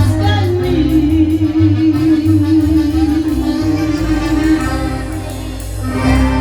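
Latin band music with singing: one long held note sounds over a pulsing bass line, and the music shifts just before the end.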